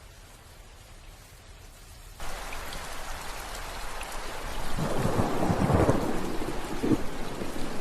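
Steady rain, faint at first, turning abruptly louder about two seconds in, with a low rumble of thunder building from about halfway.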